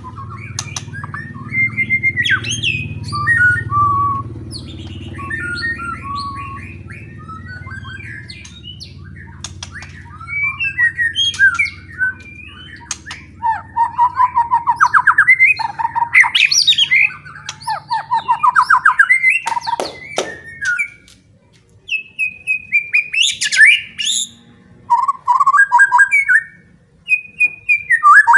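White-rumped shama (murai batu) singing loudly in varied, rapid phrases of trills, whistles and repeated notes, the kind of song used to provoke other shamas. A low steady hum runs underneath and stops about two-thirds of the way through.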